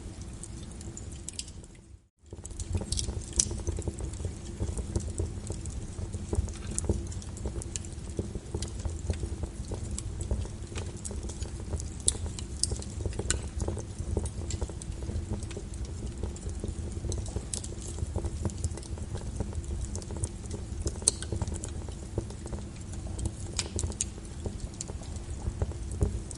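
Fireplace fire crackling: scattered sharp pops and snaps over a steady low rumble, cutting out briefly about two seconds in.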